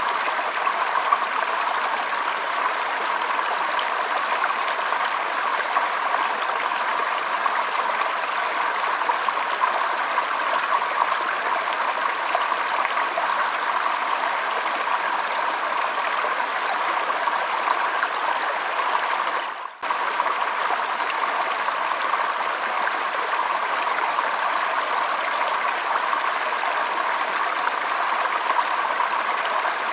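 Shallow stream flowing and trickling steadily, with a momentary dip in level about two-thirds of the way through.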